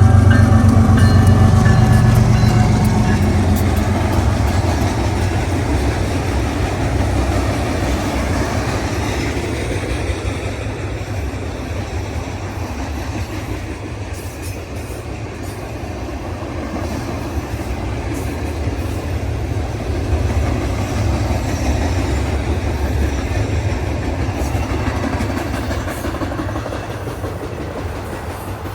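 A loaded freight train passing close by. It is loudest in the first few seconds, with a deep steady hum, then the cars roll past with a rumble and clickety-clack of wheels on rail that slowly fades.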